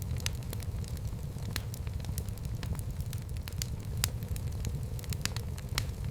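Wood fire burning in a fireplace: a steady low rumble of flames with sharp, irregular crackles and pops.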